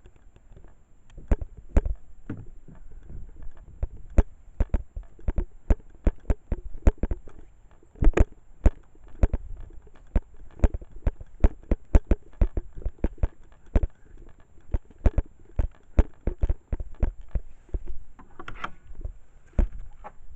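Footsteps of someone walking outdoors with a handheld camcorder, short sharp steps about two to three a second, over a low wind rumble on the microphone.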